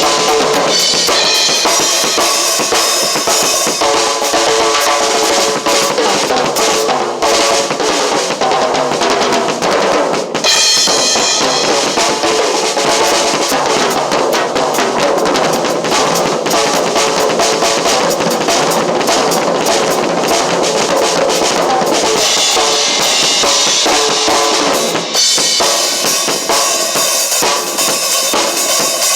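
Drum kit played continuously and loud, a dense run of bass drum, snare and cymbal strokes.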